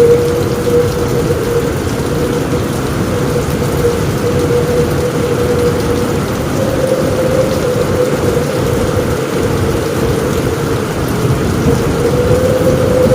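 Steady heavy rain on a roof with a continuous low rumble of thunder. A wavering, whistle-like tone sits in the mix.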